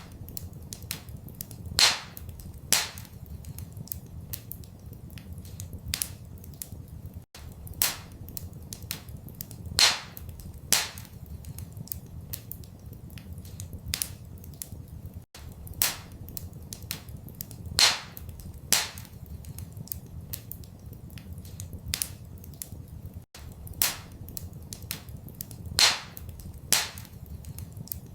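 Wood fire crackling in a fireplace: a steady patter of small crackles with louder pops now and then, over a low steady rumble. The crackle track repeats about every eight seconds, with the same pair of loud pops each time.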